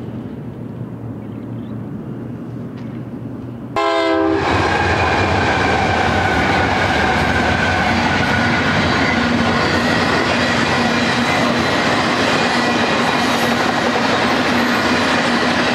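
Steady low background noise at first; about four seconds in the sound jumps much louder with a short blast of a locomotive air horn. Then BNSF and Norfolk Southern diesel locomotives of a double-stack intermodal freight train pass at speed, their engines running and steel wheels rolling on the rails, followed by the loaded stack cars.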